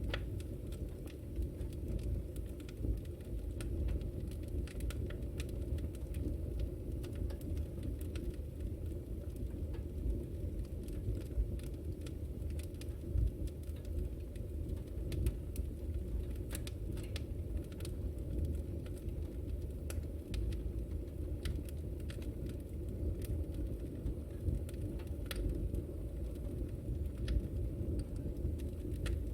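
Wood fire burning in a fireplace: a steady low rush of flames with frequent small sharp crackles and pops scattered irregularly throughout.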